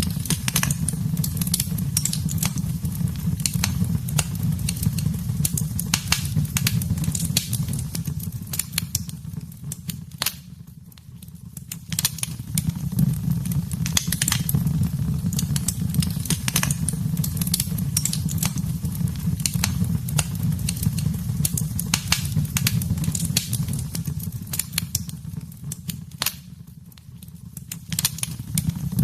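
Wood fire in a fireplace crackling: frequent sharp pops and snaps over a steady low rumble of the flames. The sound dips twice, around a third of the way in and again near the end, then swells back.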